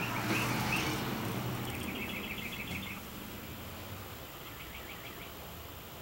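Small birds chirping, with a quick trill about two seconds in and another shorter one near the end, over a low steady hum.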